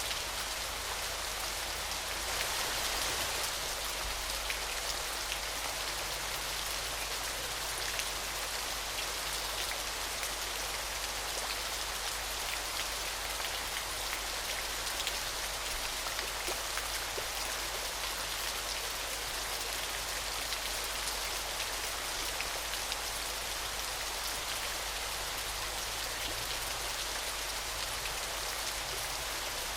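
Waterfall: a steady, unbroken rush of falling water, with many small splashes pattering through it.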